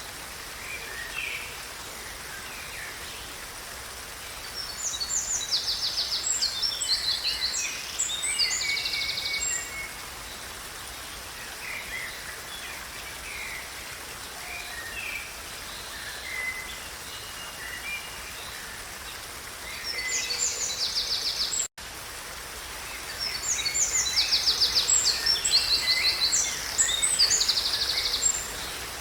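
Forest birdsong: a songbird sings a long, varied, high phrase with fast trills, twice, each about five seconds long, with quieter chirps from other birds in between, over a faint steady background hiss. The sound cuts out for an instant about three quarters of the way through.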